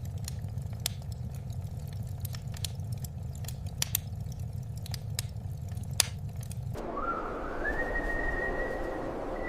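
Low storm-wind rumble with scattered crackling clicks. About seven seconds in it gives way to a hissing gust, and a single whistling tone glides up and then holds steady.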